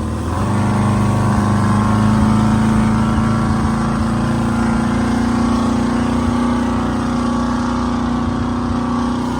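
Motorboat engine running steadily at a loud, even pitch that rises a little about half a second in and then holds.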